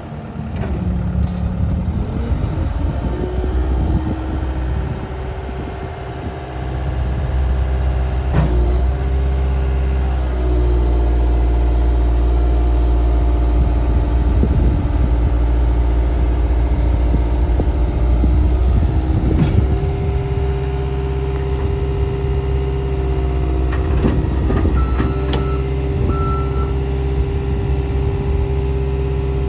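Caterpillar skid steer loader's diesel engine running, its pitch changing as the engine speeds up and settles, with occasional knocks and a couple of short beeps near the end.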